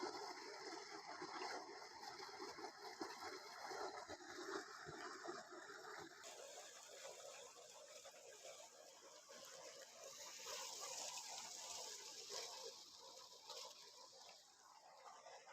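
Faint, steady rushing hiss of outdoor ambience; about six seconds in its tone shifts from lower toward higher.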